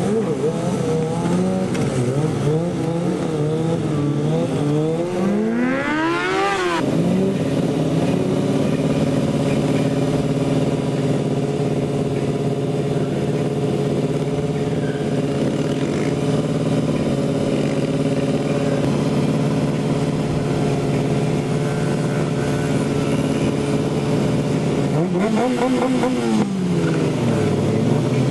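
Mini-bike engine running hard: the revs climb sharply about six seconds in, then hold steady for a long stretch, with another quick rise and fall near the end.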